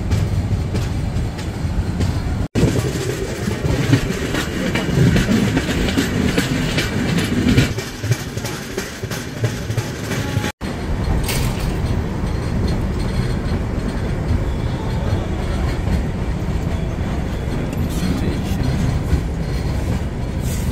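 Express passenger train running along the tracks, heard from an open coach doorway: steady rolling noise with wheel clatter over the rails. It breaks off briefly twice, at edits.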